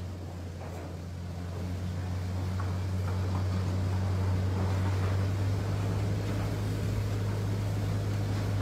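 Steady low drone of a Force Gurkha's diesel engine, with a rushing wash of floodwater around the vehicle as it wades slowly along a flooded road.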